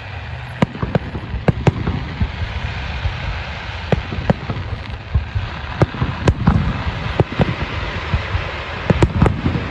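Aerial fireworks going off: many sharp bangs at irregular intervals over a steady background rush, with a cluster of bangs near the end.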